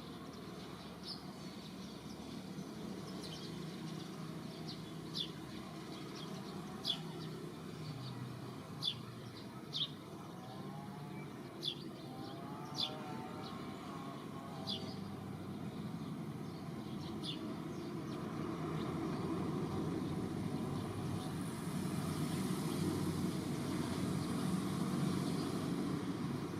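Outdoor ambience: short high chirps every second or two over a steady low rumble that grows louder toward the end.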